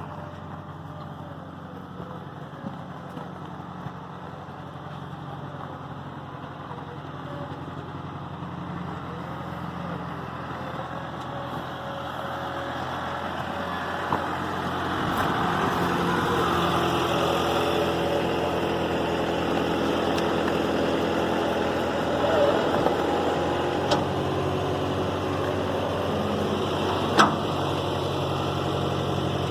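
New Holland cab tractor's diesel engine running at low revs while backing the hitched feed grinder, growing louder about halfway through. A few sharp clicks or knocks, the loudest near the end.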